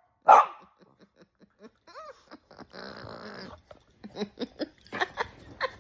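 Soft, breathy laughter that breaks into a run of short pulses, growing near the end, after one loud short burst right at the start.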